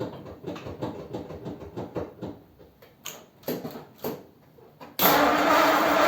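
A scatter of light clicks and knocks. Then, about five seconds in, a long-unused Ford Thunderbird's starter suddenly begins cranking the engine, loud and steady.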